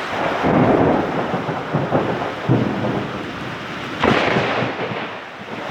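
Heavy rain pouring down in a severe thunderstorm, with thunder rumbling in surges and a sudden loud burst about four seconds in.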